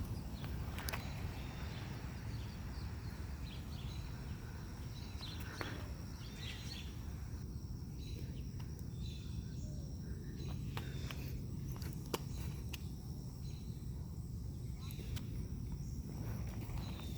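Outdoor ambience on a walk: a steady low rumble, with scattered footstep clicks and faint bird chirps.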